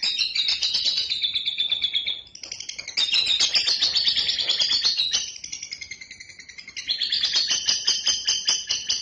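Lovebird singing a long unbroken chattering trill of rapid high chirps, about seven a second, the bird's extended 'ngekek' song. The trill grows softer about five seconds in and picks up again near seven seconds.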